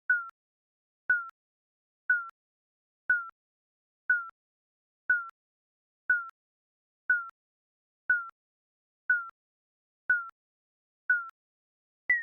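Digital countdown timer beeping once a second: short electronic beeps, each dipping slightly in pitch, with silence between. The last beep, right at the end, jumps to a higher pitch as the count nears zero.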